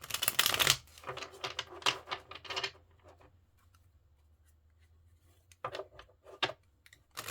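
A deck of tarot cards being shuffled by hand: a papery rustle in spells, with a pause of about two seconds in the middle.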